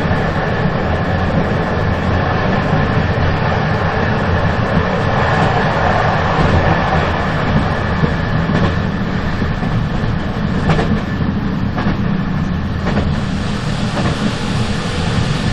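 Moving train: a steady rumble of wheels on rails, with a few sharp clacks from about eight seconds in.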